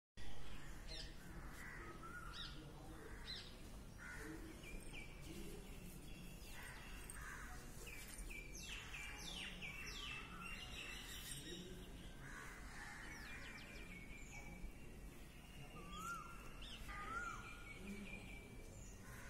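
Several birds chirping and singing, with a cluster of quick falling whistled notes about halfway through and short rise-and-fall calls repeated near the end, over a steady low background hum.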